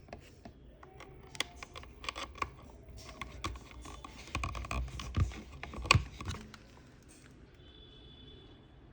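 Irregular clicks, taps and light knocks of hands handling the small plastic speaker and its parts, busiest a few seconds in, with one sharp click near the end of the busy stretch.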